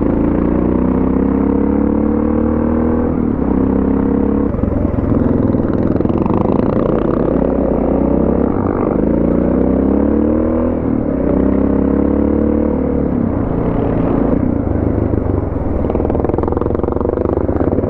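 Suzuki DR650's single-cylinder four-stroke engine pulling away under load, its pitch climbing and then dropping back at each upshift, several times over, with rough road and wind noise underneath.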